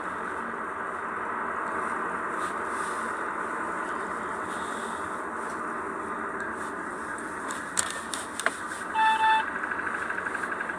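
Kia K3 (YD) Gamma GDI petrol engine running with a fast, even ticking 'dadada' noise, which the owner suspects is a GDI engine fault such as tappet noise, scuffing or knocking. A few sharp clicks come near the end, followed by a short beep.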